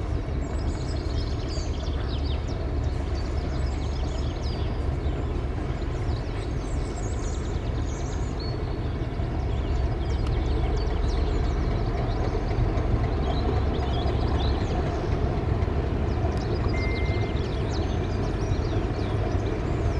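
Steady low rumble of a train out of sight, getting a little louder about halfway through, with small birds chirping over it.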